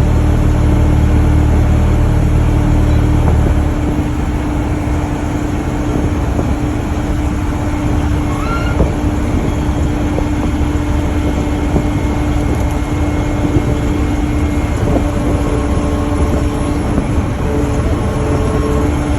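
Fishing boat's engine running steadily with a constant hum; its deep low rumble eases off about four seconds in.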